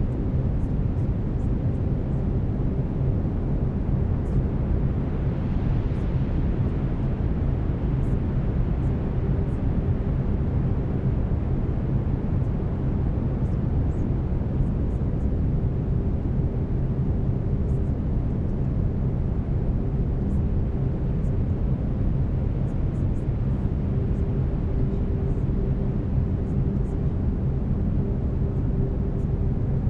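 Steady brown noise, a deep even rumbling hiss, with a faint steady tone underneath that fades in and out.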